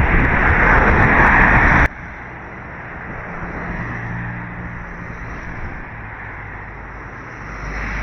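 Heavy wind rumble on the microphone that cuts off abruptly about two seconds in. After it comes a quieter roadside background with a low engine hum from passing traffic.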